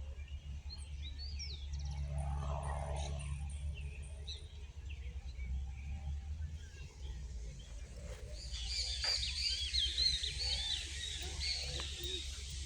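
Wild birds chirping and calling, scattered at first with a quick run of thin, high repeated notes, then a dense chorus of many overlapping chirps from several birds in the second half. A steady low rumble runs underneath.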